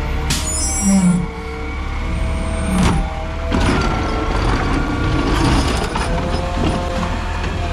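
Garbage truck running, a steady engine drone with a few pitched lines over a low rumble. It gets louder and rougher a little past halfway, with a couple of sharp knocks in the first three seconds.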